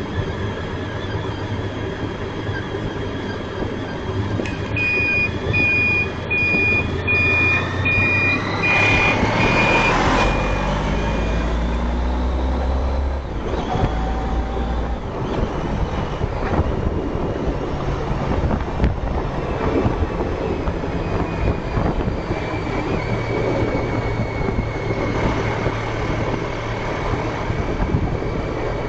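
Honda ST1300 Pan European's V4 engine running on the road, with steady wind and road noise. About eight seconds in the engine pitch rises as it accelerates. From about five seconds in, a regular high electronic beep repeats for about six seconds.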